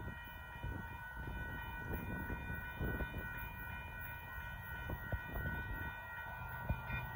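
Union Pacific boxcar freight train rolling through a grade crossing: a steady low rumble of railcars with a few sharp clacks of wheels over the rail. The crossing's warning bell rings steadily over it.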